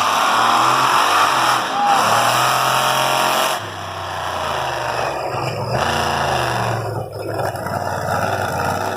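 Monster truck tank's engine running hard, then easing off about three and a half seconds in and carrying on at a lower, steadier level.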